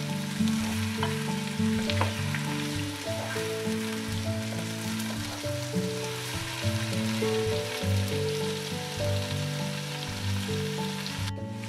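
Sliced courgettes sizzling as they fry in oil in a pan, with a spatula stirring them and clicking against the pan now and then. A background music melody of held low notes plays under the sizzle, and the sizzle cuts out briefly just before the end.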